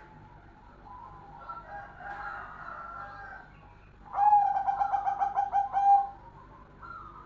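Perkutut (zebra dove) of the golden colour variety cooing. Soft, quieter coos come first; then, about four seconds in, a loud rapid trilled coo of about ten pulses lasts nearly two seconds.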